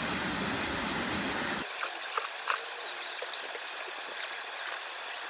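Mountain stream water flowing. About a second and a half in, a heavy rushing sound cuts off abruptly and gives way to a lighter babbling with many small clicks and splashes.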